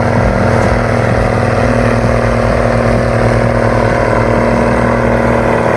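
Tuned Zetor 16245 tractor's diesel engine, tuned to about 300 hp, running flat out and steady under load during a tractor pull.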